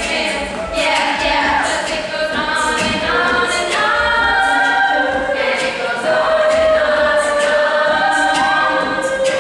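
A cappella group singing in harmony, several voices holding and moving between pitched chords with no instruments.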